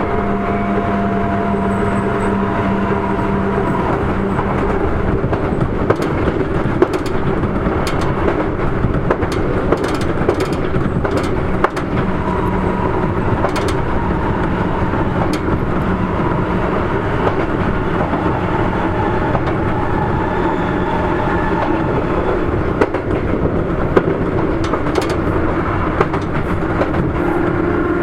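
Sotetsu 8000 series electric train with Hitachi IGBT-VVVF drive, heard from inside a car while running at speed: continuous wheel and track rumble with irregular clicks from rail joints. A steady hum stops about four seconds in.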